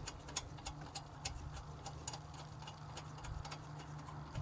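Faint, irregular light clicks and taps of tools and parts being handled, a few a second, over a steady low hum.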